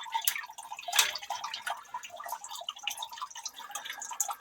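Water dripping and trickling in a sump pit, a quick irregular patter of drops with no pump motor running.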